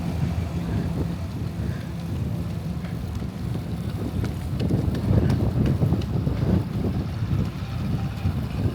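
Wind buffeting the microphone on a moving bicycle, a steady low rumble with no break.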